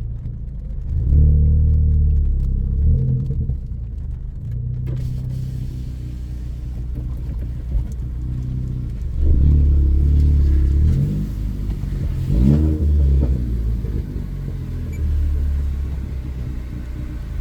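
2014 Ford Focus ST's tuned 2.0-litre turbocharged four-cylinder and its high-flow catted downpipe with straight 2.5-inch exhaust, running under way. The engine gets louder under load about a second in and again about nine seconds in, with a quick rise in revs around twelve seconds in.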